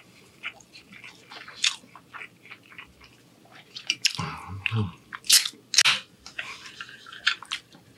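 Close-miked chewing of a mouthful of shrimp angel-hair pasta: wet mouth clicks and smacks throughout. About four seconds in comes a brief, low voiced sound from the eater.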